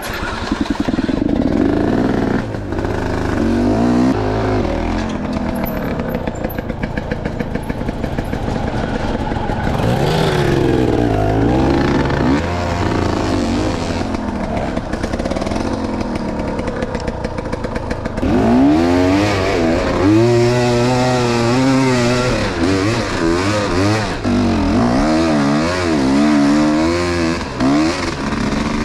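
Enduro motorcycle engine revving up and down under riding, its pitch rising and falling again and again as the throttle is worked. It gets louder and the swings grow wider from about two-thirds of the way in.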